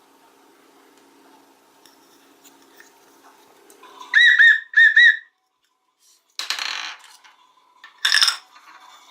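Two short, loud warbling whistle sounds about four seconds in, followed after a moment of dead silence by a noisy whoosh and a short bright burst near the end, like edited sound effects.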